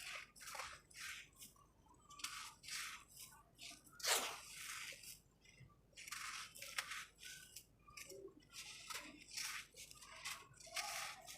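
Dry red sand-cement chunks crumbling, a quick irregular series of short crunches, the loudest about four seconds in.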